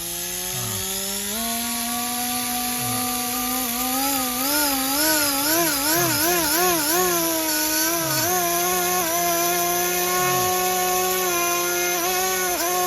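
WLtoys V950 RC helicopter's brushless motor and rotor spinning up to a steady whine. In the middle the pitch wavers up and down several times as the helicopter is rocked to test the control board's correction, then it steadies and spools down at the very end.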